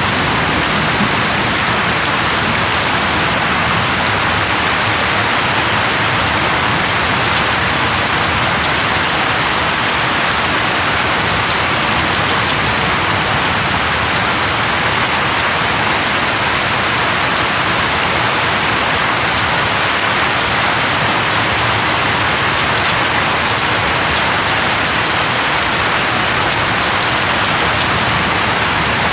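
Steady, loud rainfall with dense raindrops pattering on a surface, an even hiss that does not let up.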